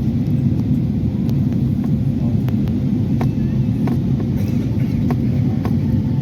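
Steady low rumble of airliner cabin noise in flight, from the engines and the airflow over the fuselage, with a faint steady hum above it.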